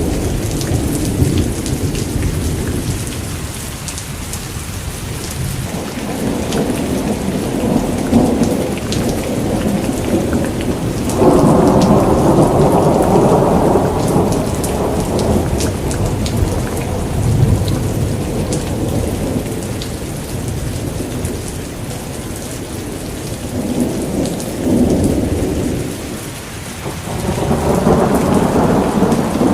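Steady rain with fine drop patter, under rolling thunder that swells and fades several times. The longest, loudest roll comes about eleven seconds in, and another builds near the end.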